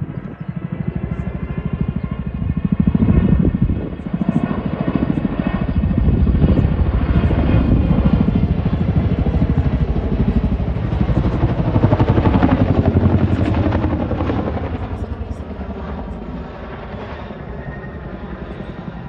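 Boeing CH-47 Chinook tandem-rotor helicopter flying past, its rotors beating in rapid, even pulses. It grows loud a few seconds in and eases off over the last few seconds.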